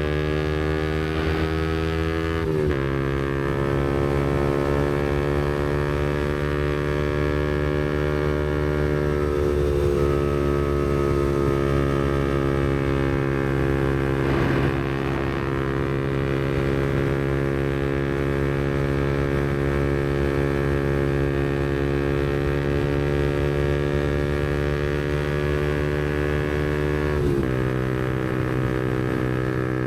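Yamaha MT-125's single-cylinder 125 cc four-stroke engine running through a Black Widow aftermarket exhaust while cruising, a steady engine note that drifts slowly in pitch. The note breaks briefly about three seconds in and again near the end, as on gear changes.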